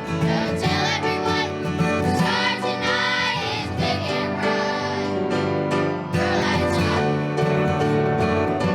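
Children's choir singing a Christmas song over an instrumental accompaniment with guitar and piano; the voices drop out for a few seconds past the middle, leaving the accompaniment, and come in again briefly.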